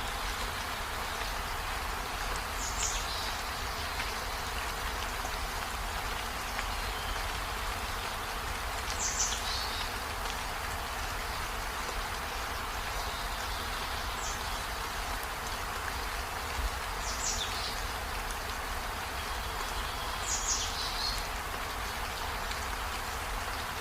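Steady rain falling on trees and a window, an even hiss. A few short, high chirps from some small animal come through it at intervals.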